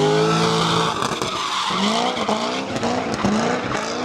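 A car's engine revving hard with tyres squealing in a burnout or donut. There is a long rising rev in the first second, then a string of short revs about every half second.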